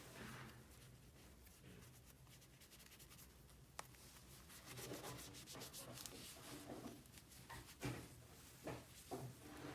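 Faint rubbing and handling noises, with a single sharp click about four seconds in and a few soft knocks near the end.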